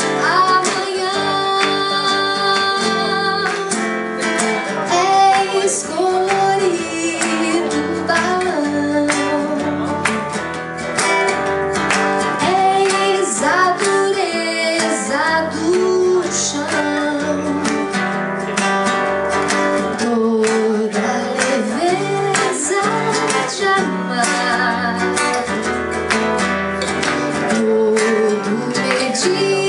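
A live song: a woman singing a melody over a strummed acoustic guitar.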